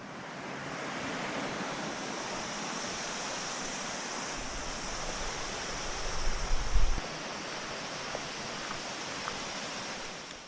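Outdoor ambience: a steady rushing noise, with low rumbling wind buffeting on the microphone for a few seconds in the middle.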